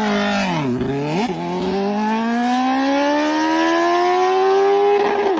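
Superbike engine and exhaust under throttle: the pitch drops briefly about a second in, then climbs smoothly for several seconds as the bike accelerates, falling away again near the end.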